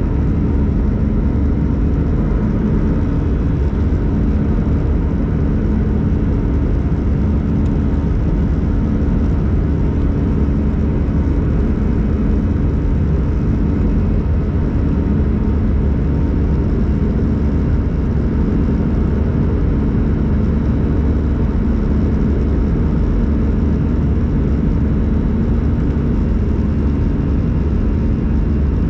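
Steady cabin noise inside an Airbus A321-111 in flight: a deep, even drone of the CFM56 turbofan engines and airflow, with a few steady low hum tones and no change throughout.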